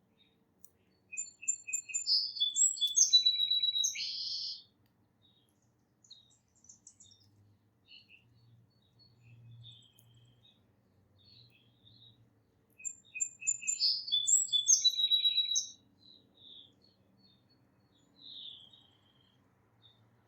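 A song sparrow sings the same song twice, about eleven seconds apart. Each song opens with a few short repeated notes and runs into a buzzy trill. Faint single chirps come in between.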